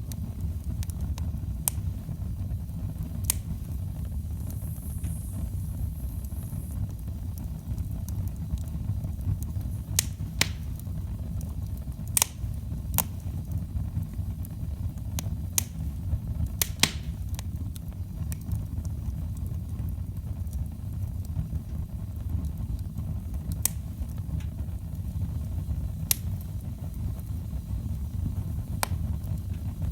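Wood fire burning in a fireplace: a steady low rumble of flames with sharp crackles and pops at irregular intervals.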